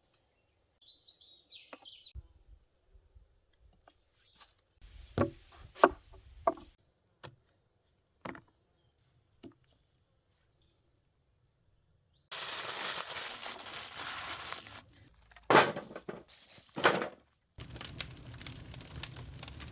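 Outdoor food-preparation handling sounds: scattered sharp knocks and clicks, then about three seconds of dense rustling noise starting some twelve seconds in, followed by two louder knocks and more rustling. Birds chirp briefly near the start.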